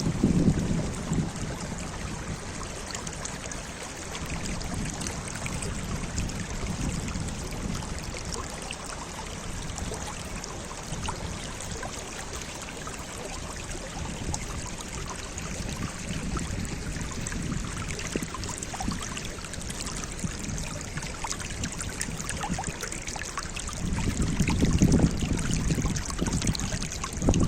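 Steady rushing of running water, like a stream, with a louder low rumble swelling about a second in and again near the end.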